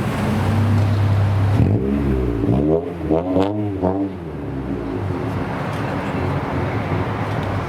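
A car engine idling, then revved in about four quick blips, each rising and falling in pitch, a couple of seconds in; afterwards a steady engine and traffic rumble.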